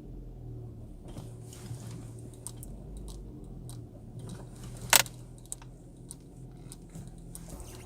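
Ford Fiesta engine idling steadily after a cold start, with scattered light clicks and one sharp click about five seconds in.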